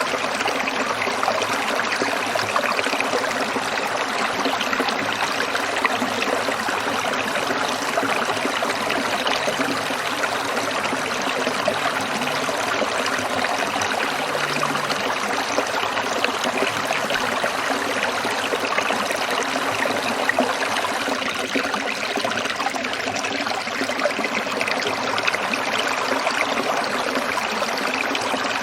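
Small stream trickling and splashing over rocks in a steady, unbroken flow.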